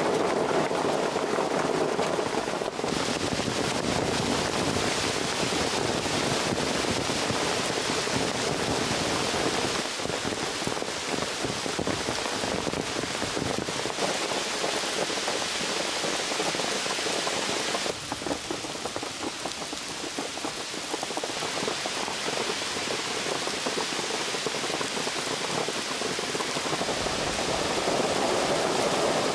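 Thunderstorm rain pouring steadily, easing a little for a few seconds past the middle before picking up again.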